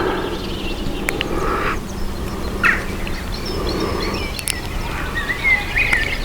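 A few short, high, wavering animal calls near the end, over steady background noise, with a few light clicks.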